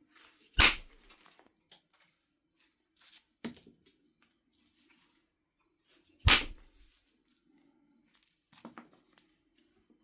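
Knife River flint biface being knapped: two sharp percussion strikes on the stone about six seconds apart, with lighter clicks and taps in between.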